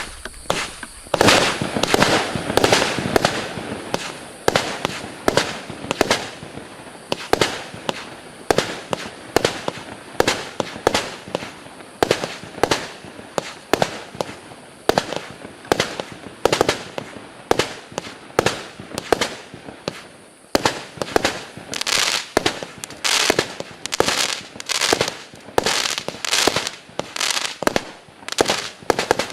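A 128-shot compact firework cake of 20 mm tubes firing in rapid succession: a steady run of sharp launch bangs and bursts, about two to three a second, with crackling between them. The shots come thicker near the end.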